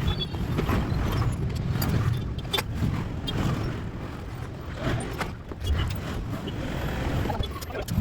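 Repeated metallic clinks and knocks of tools or parts being handled during car engine work, over a steady low rumble.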